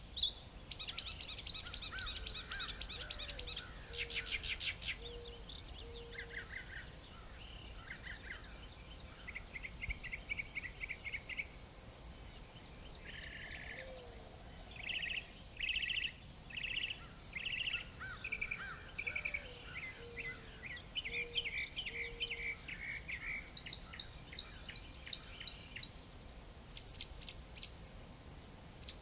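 Birds singing and chirping in varied short phrases and trills over a steady, continuous high-pitched insect trill.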